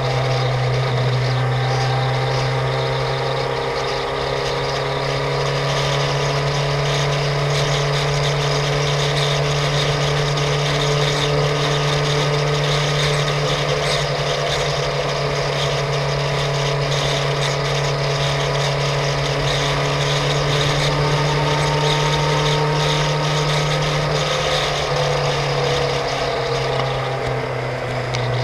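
Suzuki GSX-R750 K5's inline-four engine running steadily at cruising revs through bends, with wind rush over the camera; the engine note dips slightly near the end as the throttle eases off.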